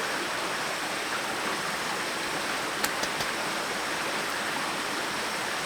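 Mountain valley stream rushing steadily, with a few faint light clicks about halfway through.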